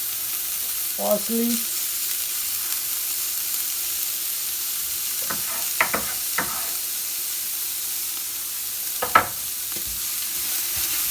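Chopped carrot, onion, celery and herbs sizzling as they brown in olive oil in a pot. A utensil knocks against the pot a few times around the middle as they are stirred, with one sharper knock later on.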